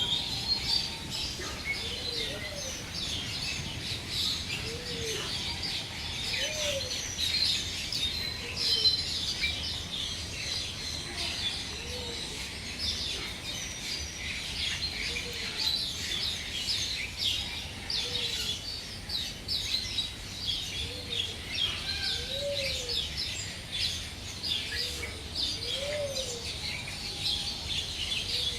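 Many birds chirping and twittering together without a break, with one bird repeating a short, low, rising-and-falling call every second or two.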